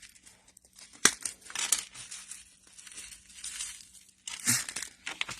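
Crinkling and rustling of crafting supplies handled on a table, with a sharp click about a second in and a knock at about four and a half seconds.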